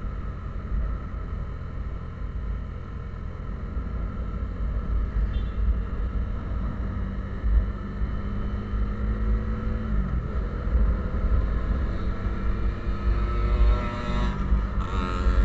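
A road vehicle's engine running steadily while on the move, with road rumble underneath. The engine note drops about ten seconds in, then rises again near the end.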